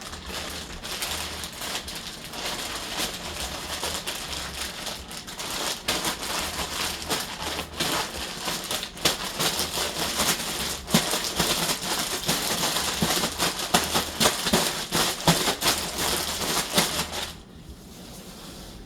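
Flour-coated chicken wings frying in very hot oil in a skillet, sizzling steadily with many sharp pops and crackles. The sizzle drops away suddenly near the end.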